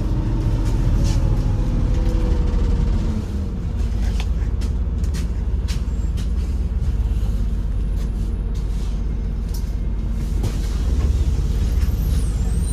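Inside a MAZ-203 city bus under way: the engine and drivetrain run with a deep rumble. A tone rises for the first three seconds and then drops away as the loudness dips, and knocks and rattles sound throughout.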